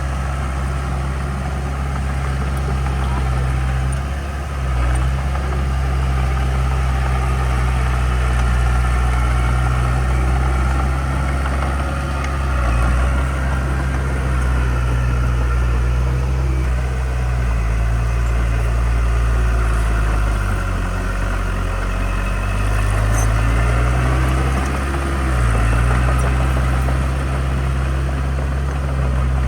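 Heavy construction machine's diesel engine running steadily, with its note dipping briefly a few times and a longer sag about two-thirds of the way through.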